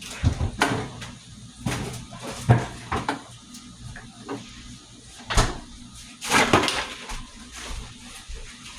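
A string of irregular knocks and clatters, like cupboard doors and household items being handled and set down during kitchen cleaning. The loudest come about two and a half seconds in and again between five and seven seconds.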